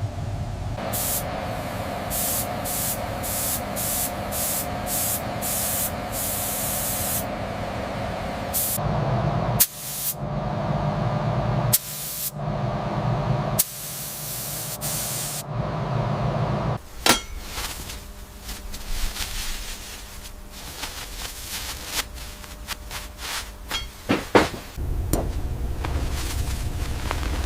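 A quick series of short hissing sprays, then a few longer hisses over a low hum, followed by scattered light clicks and taps.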